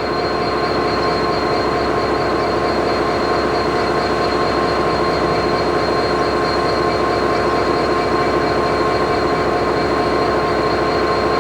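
Class 66 diesel-electric locomotive's turbocharged V12 two-stroke diesel engine idling steadily, with a few steady high tones held over the engine note.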